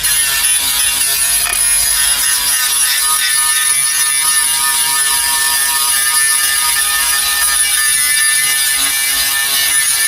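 Angle grinder running steadily against sheet steel, cleaning up a new sill repair panel drilled for plug welding: a steady high whine over grinding hiss.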